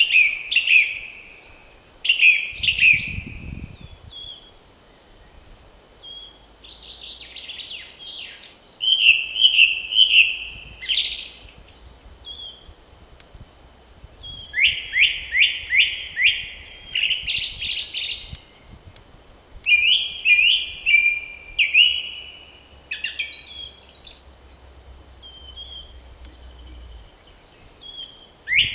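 Songbirds singing: short phrases of quick chirps and trills repeated every few seconds, over a faint low rumble of wind.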